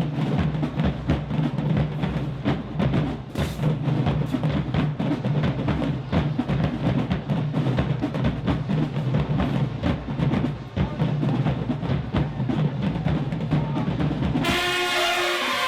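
High school marching band's drum section playing a fast, dense beat with bass drums and no horns. About a second before the end, the brass section comes in with held notes.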